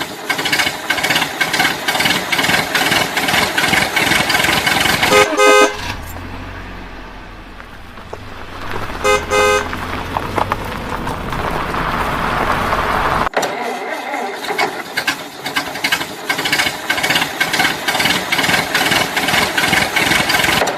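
A vehicle horn honks twice, about five and nine seconds in, over vehicle noise. Between the honks a low engine hum runs, with a rising rush that cuts off suddenly about thirteen seconds in. Dense clattering noise fills the rest.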